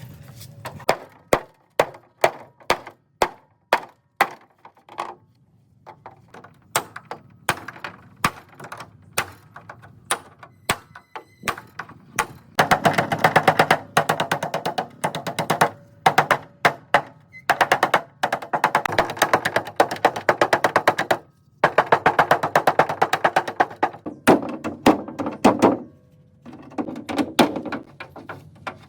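Repeated hammer blows on car body metal: single strikes about every half second at first, then from about 12 seconds in, runs of rapid strikes with short pauses.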